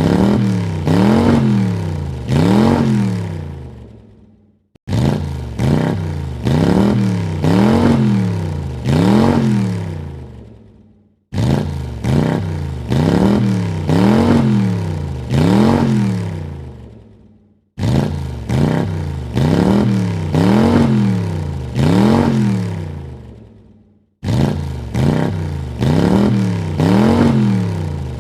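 A car engine blipped through three quick revs in a row, each rising and falling in pitch, then dying away. The same burst of revs repeats about every six and a half seconds, starting again abruptly each time.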